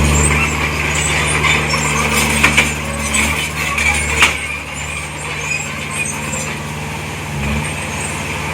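Heavy diesel earthmoving machinery running steadily, with a few sharp metallic clanks about two and a half and four seconds in. The engine note drops back at about three seconds and swells briefly near the end.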